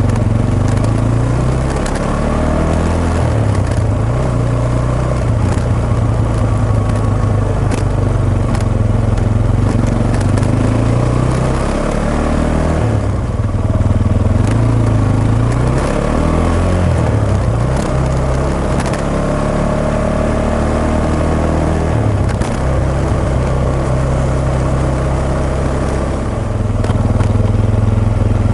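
Suzuki Djebel 250XC's single-cylinder engine running under way, its pitch stepping up and down several times as the rider works the throttle and gears. Scattered scratchy clicks come from the bike-mounted microphone, whose placement lets noise into the recording.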